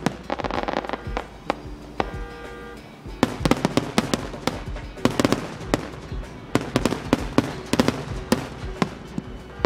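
Aerial fireworks shells bursting: a quick cluster of sharp bangs and crackles, then about two seconds later a dense barrage of bangs lasting several seconds. Background music plays underneath.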